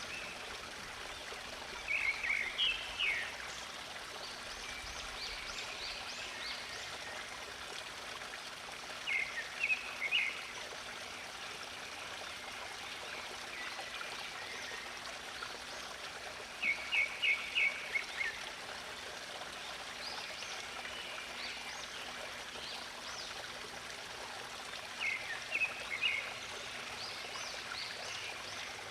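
Running stream water flowing steadily, with a songbird repeating a short phrase of a few quick notes about every seven or eight seconds and fainter chirps from other birds in between.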